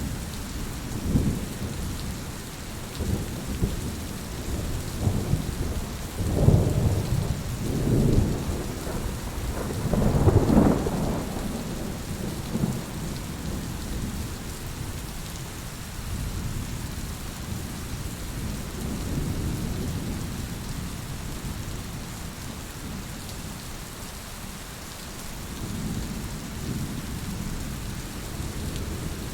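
Heavy rain falling steadily, with thunder rumbling low underneath; the rumbles swell several times, loudest about six to eight seconds in and again around ten seconds, then roll on more quietly.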